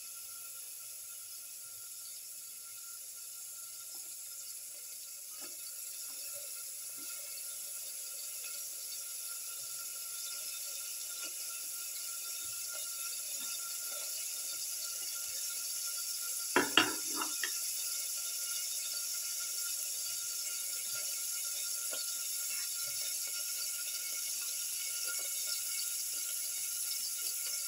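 Cut shallots sizzling in hot oil in a pan: a steady, hissy sizzle that slowly grows louder. Two sharp knocks a little past halfway.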